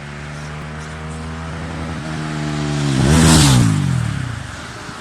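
Mahindra Mojo motorcycle's single-cylinder engine and exhaust: a steady engine note, then rising in pitch and loudness to a loud peak about three seconds in, then dropping in pitch and fading.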